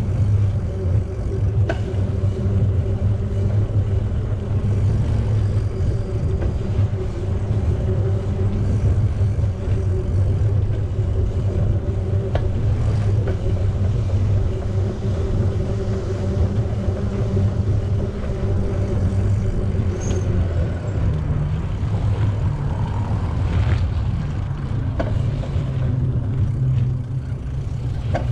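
Steady low rumble while riding a bicycle: wind and tyre noise on a bike-mounted microphone.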